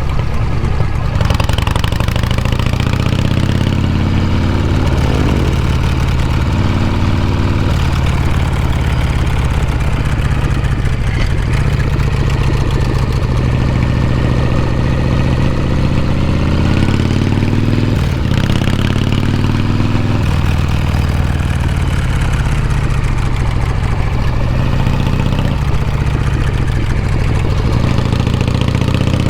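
Harley-Davidson Shovelhead air-cooled V-twin running under way, its exhaust note rising and falling with throttle and gear changes.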